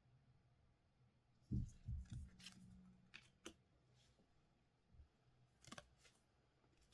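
Quiet handling of trading-card packs and cards: a few soft low thumps about a second and a half in, then several short crisp clicks and rustles.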